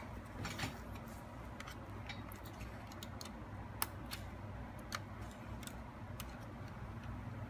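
Small irregular clicks and taps, roughly one or two a second, the sharpest about halfway through, from laptop parts and tools being handled during disassembly, over a steady low hum.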